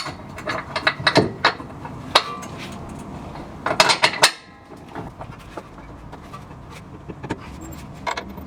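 Hand tools working on metal suspension bolts: a run of sharp clicks and clinks, with a dense burst of ratchet-like clicking about four seconds in that stops suddenly, then only the odd click.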